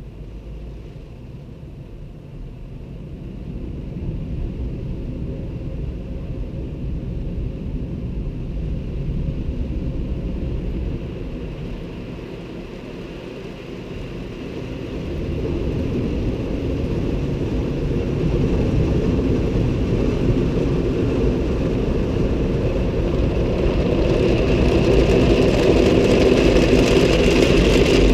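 Automatic car wash machinery at work on a car: a steady rushing, rumbling noise of spraying water and wash equipment. It swells after a few seconds, dips briefly near the middle, then builds to its loudest and brightest near the end.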